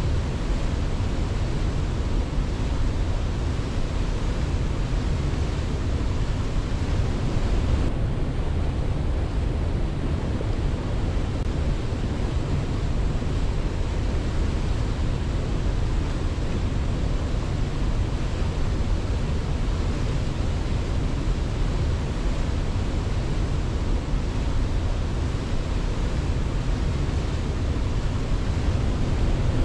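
Steady rushing of water, heaviest in the low end, with no birdsong. The highest part of the hiss dulls slightly about eight seconds in.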